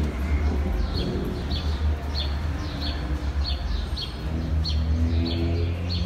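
A small bird chirping over and over, about one and a half chirps a second, over a steady low rumble.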